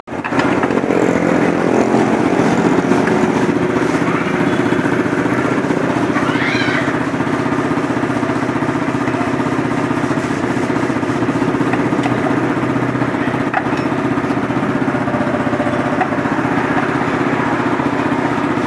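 Yamaha XMAX 250 scooter's single-cylinder engine idling steadily, starting abruptly and holding an even, unchanging note.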